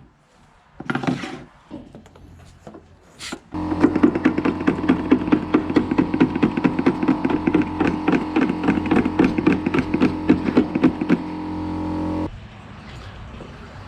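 A few knocks, then a small motor-driven siphon pump transferring diesel runs with a steady buzz and rapid rattle for about nine seconds before cutting off suddenly.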